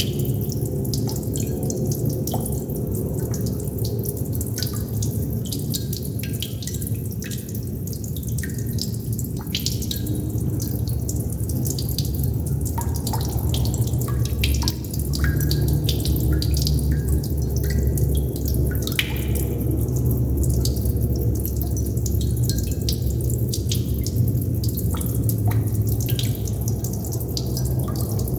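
Water droplets dripping and plinking at an irregular pace over a steady, low rushing background that grows a little louder about halfway through.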